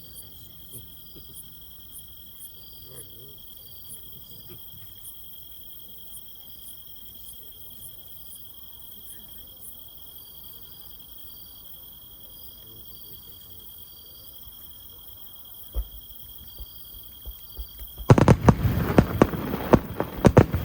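Insects chirring steadily in the background, then one sharp firework bang about three-quarters of the way through. Near the end comes a loud, rapid run of firework bangs and crackling.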